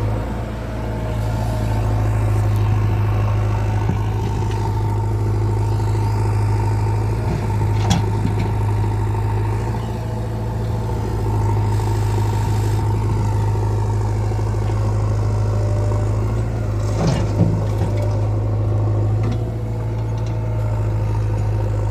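Heavy diesel engine running steadily at a low, even pitch, with a couple of short knocks, one about a third of the way in and another later on.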